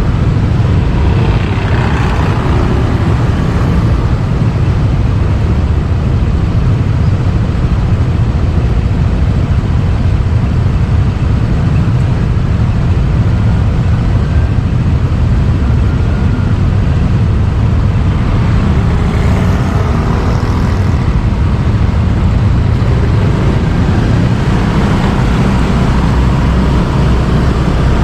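Motorbike riding steadily through city traffic: a loud, even low rumble from the engine and the ride, with brief sounds of other traffic passing about two seconds in and again past the middle.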